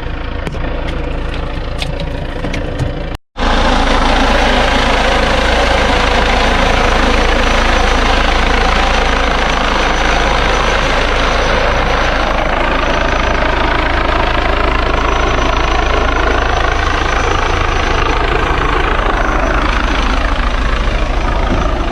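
Loud, steady engine running close up, with a brief complete break about three seconds in.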